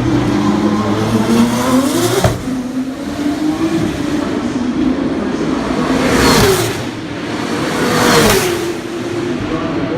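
Formula 2 cars' 3.4-litre turbocharged V6 engines at racing speed: engine pitch rising under acceleration through the first two seconds, then two cars passing close, about six and eight seconds in, each dropping in pitch as it goes by.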